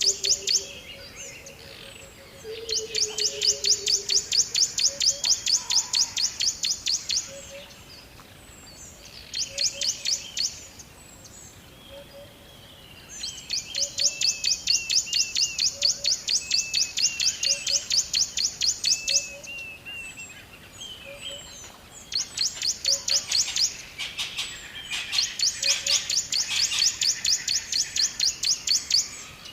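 Birds chirping: a fast, high trill comes in bouts of a few seconds each with short pauses between, and softer chirps sit beneath it. A soft low note repeats about once a second.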